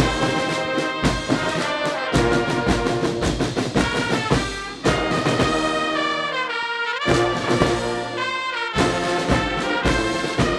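Military brass band playing ceremonial music, with trombones and trumpets over a steady low drum beat and some sliding brass notes in the middle.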